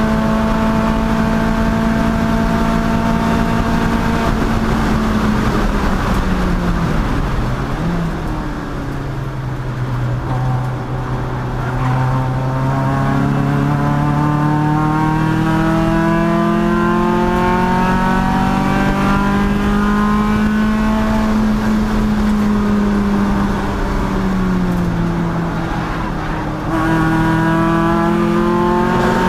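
Race car engine under hard running: held at high revs, then dropping as the car slows for a corner, and climbing steadily under full throttle. Another dip in revs comes near the end, followed by a quick rise.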